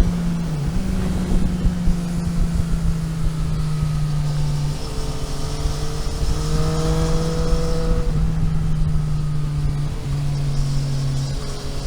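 A vehicle engine running under way, with dense road and wind rumble beneath it. The engine note holds fairly steady and steps up and down in pitch several times as the revs change.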